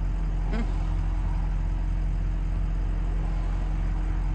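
Steady hum of a car's engine and road noise, heard from inside the cabin while driving.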